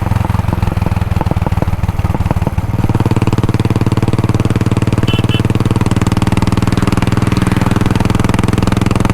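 Royal Enfield Bullet 500 single-cylinder four-stroke engine running through its original exhaust. It idles with distinct separate thumps, then about three seconds in it settles into a steadier, smoother run.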